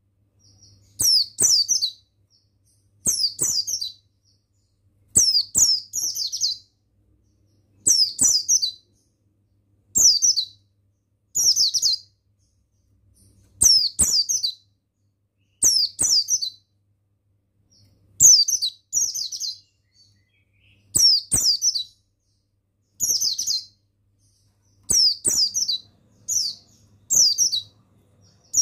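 White-eye (pleci buxtoni) singing: short bursts of rapid, high, falling chirps, each about a second long, repeating roughly every two seconds.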